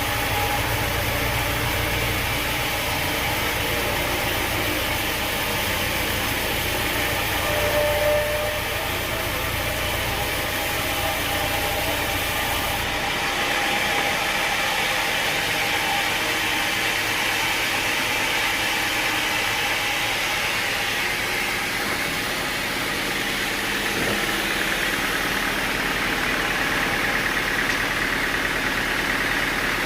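Sawmill machinery running steadily, an even engine-like drone; its deep low rumble drops away about 13 seconds in while the rest of the noise carries on.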